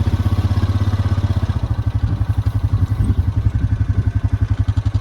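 Vehicle engine running slowly with a steady, fast low throb.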